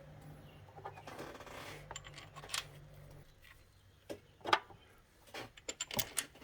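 Light metallic clinks and taps of hand tools and engine parts being handled, a few sharp clicks spread through, the loudest about four and a half and six seconds in. A low steady hum runs under them and fades out about three seconds in.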